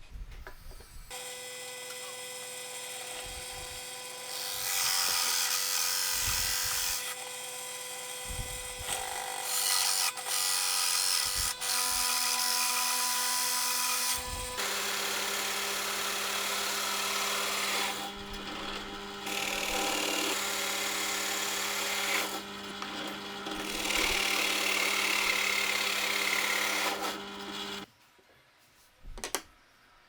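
Electric power tool running on wood with a steady motor whine, growing louder in several stretches as it bites into the work. Its pitch shifts about halfway through, and it stops near the end.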